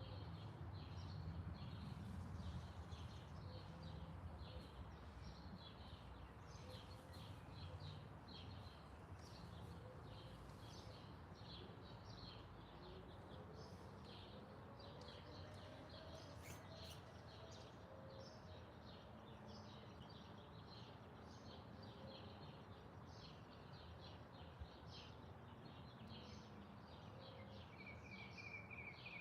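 Small garden birds chirping: many short, quick high calls one after another, faint, over a steady low background rumble. Near the end a single brief whistled note stands out.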